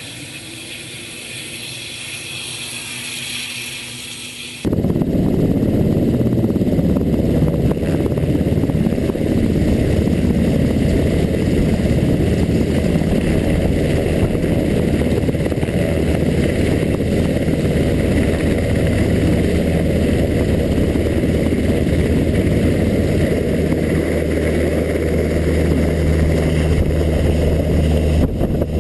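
UH-60 Black Hawk helicopter running: a high turbine whine at first, then, from about five seconds in, a loud steady low rumble of the rotors with rotor wash buffeting the microphone.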